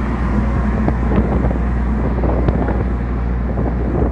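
Steady low hum of a fishing vessel's engine, with wind noise on the microphone and a few light knocks.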